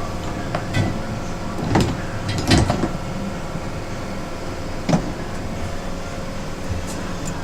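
Torrent 500 parts washer running with a steady hum, broken by a few short knocks and clatters, the loudest about two and a half seconds in.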